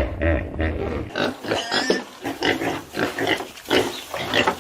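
Pigs grunting and squealing in a quick series of short calls. For about the first second, a low, pulsing growl from another animal carries over before the pigs take over.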